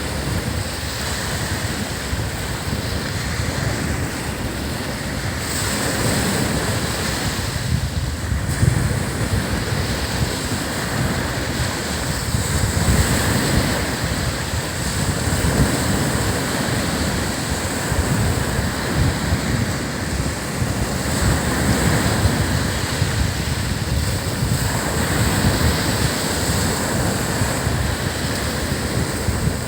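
Ocean surf breaking and washing up on a sandy beach, a continuous rush that swells and eases every several seconds, with wind rumbling on the microphone.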